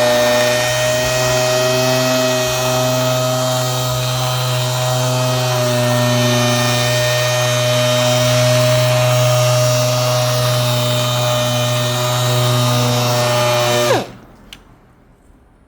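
Handheld electric orbital machine running steadily on car paintwork during the sanding-and-polishing stage: a loud, even motor hum with a hiss over it. Near the end it is switched off, its pitch dropping as it spins down.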